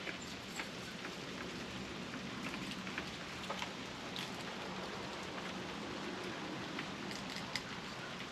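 Steady rain falling on a surface, an even patter throughout, with a few faint scattered clicks and taps.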